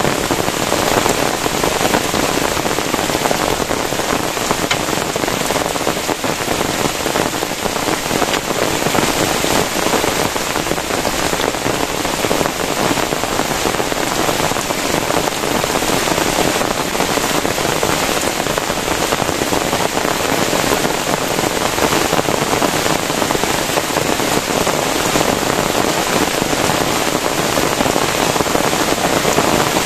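Heavy rain pouring steadily, an even, dense hiss of drops with no let-up.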